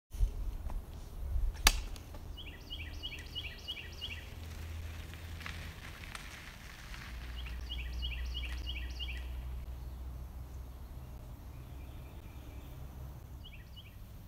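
A songbird singing a quick run of about five repeated down-slurred notes, three times over, against a low wind rumble on the microphone. A sharp click near the start is the loudest sound.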